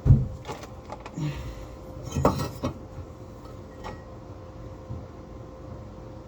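A heavy thump, then a few scattered knocks and clicks, a small cluster of them about two seconds in, as metal parts and tools are handled under a car. There is a faint steady hum underneath.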